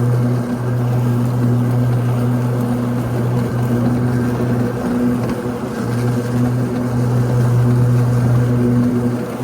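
Ryobi 80V electric riding lawn tractor mowing, its blade motors at medium speed giving a steady, loud hum that dips briefly a few times.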